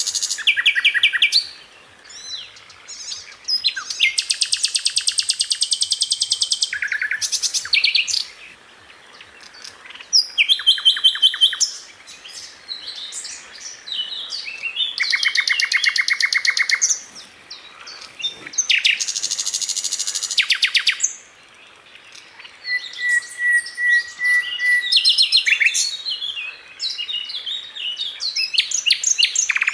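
Sikatan londo flycatcher singing in bursts of very fast, tightly repeated high notes, each phrase lasting one to three seconds with short pauses between, and one drawn-out level whistle in the second half.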